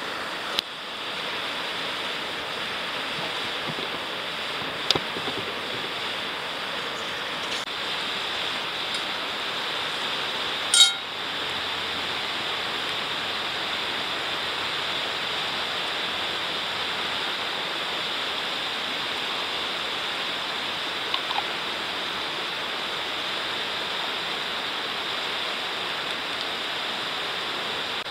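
Food sizzling steadily in a hot wrought-iron frying pan over a wood fire, with a few sharp clicks, the loudest about eleven seconds in.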